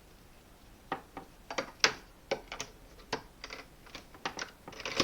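Irregular plastic clicks and knocks, starting about a second in, as the handle of a Hoover Complete Performance vacuum cleaner is released with its push button and pulled out of its socket.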